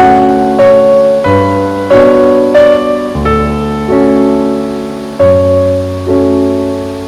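Background piano music: single notes and chords struck at a gentle pace, each ringing and fading before the next.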